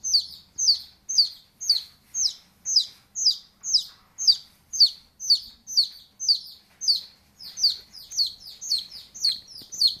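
A bird calling over and over, a short high-pitched chirp that slides down in pitch, about twice a second, a little faster and softer in the last couple of seconds.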